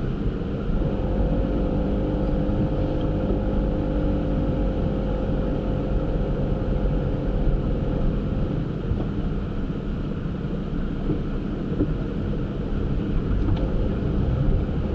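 Camper van driving, with steady low engine and road rumble. An engine tone comes in about a second in and fades away by around the middle.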